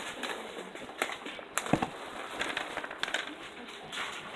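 Rustling and crinkling of a snack bag being handled, with a few light clicks and knocks.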